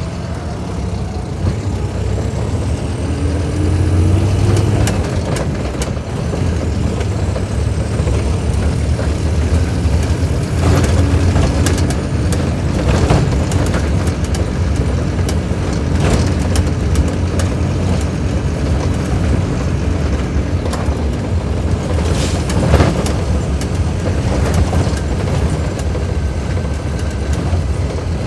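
Scania K310IB bus's diesel engine running with a strong low rumble. Its pitch rises briefly about three seconds in, and a steady whine sits over it through the middle. Several sharp knocks or rattles come through, the loudest a little past the three-quarter mark.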